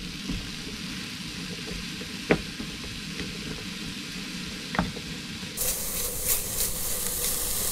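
Mushrooms frying in a Trangia pan, sizzling steadily, with two light knocks in the middle; the sizzle turns brighter near the end.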